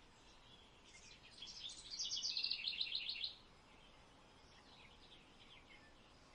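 Small birds chirping faintly in quick runs of high notes from about a second in, loudest around two to three seconds, then only a few faint chirps.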